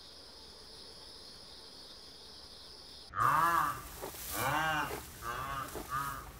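A faint, steady high hiss, then about three seconds in a run of loud, short animal calls, each rising and falling in pitch, about one a second.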